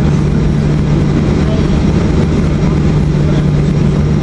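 Boeing 737-800's CFM56 jet engines running: a steady low drone with a constant hum, holding level without spooling up or down.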